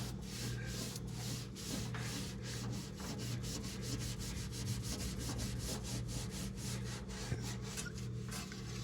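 Scrubbing a stained microwave interior by hand, in rapid back-and-forth strokes, about four a second, over a steady low hum.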